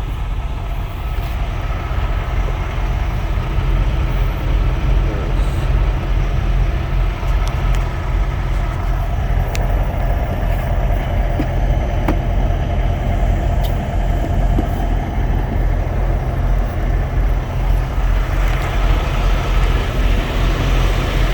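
Steady low rumble of idling vehicle engines outdoors in a snowstorm, with wind noise hissing over it.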